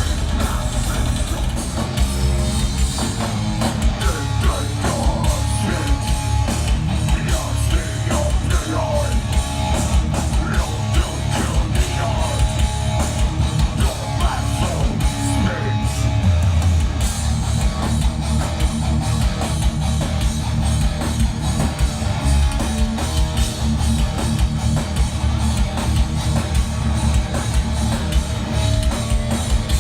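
Heavy rock band playing live: electric guitars over bass and a drum kit.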